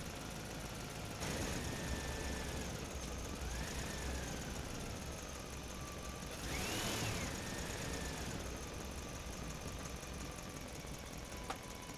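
A motor whining, its pitch sliding up and down from about a second in, with a louder rise and fall in pitch near the middle and one sharp click near the end.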